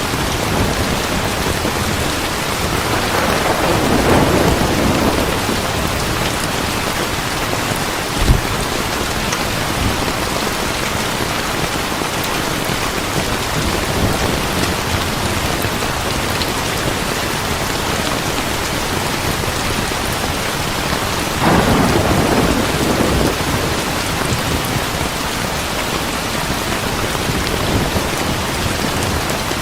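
Heavy rain falling steadily, with thunder rumbling twice, about three seconds in and again past the twenty-second mark. A single sharp crack stands out at about eight seconds.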